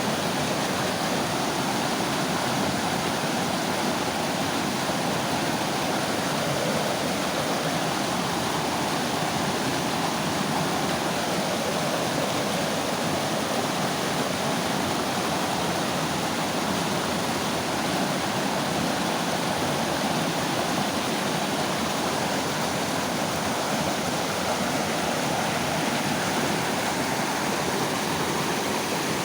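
Mountain river water flowing and rushing over rocks, a steady, unbroken wash of water noise.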